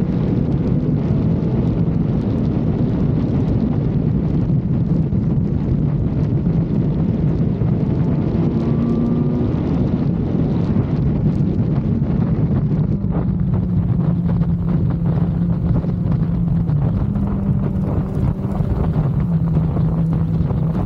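Kawasaki Z900's inline-four engine running under way, its note shifting up and down in pitch a few times, with wind noise on the microphone.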